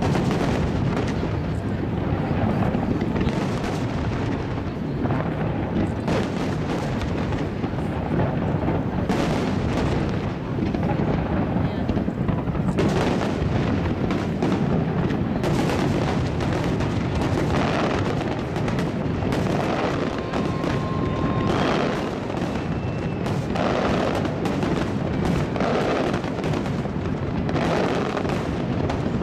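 Fireworks barrage: many aerial shells and comets bursting at once, a rapid continuous run of overlapping booms and reports with no pauses between them.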